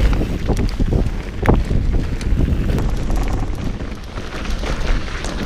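Wind rushing over an action camera's microphone as a mountain bike rides a trail at speed, with a loud steady low rumble and sharp knocks and rattles from the bike going over rough ground, most of them in the first couple of seconds.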